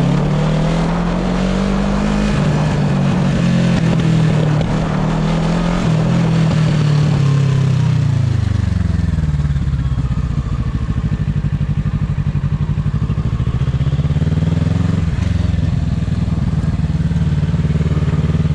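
Motorcycle engine running while riding, its revs rising and falling. About eight seconds in it drops to a slow, evenly pulsing low-rev run, then picks up again near the end.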